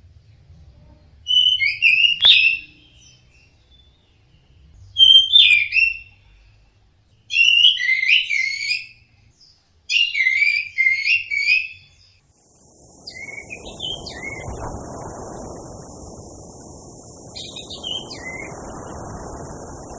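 Orange-headed thrush singing: four loud phrases of quick, varied whistled notes a few seconds apart. About twelve seconds in, a steady high hiss and a low rushing noise come in, and the song goes on more faintly over them.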